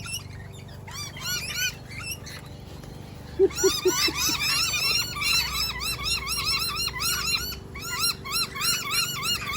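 A small flock of lorikeets chattering in short, rapid, overlapping screechy chirps. The calls are sparse at first and become a dense, continuous chatter about three seconds in.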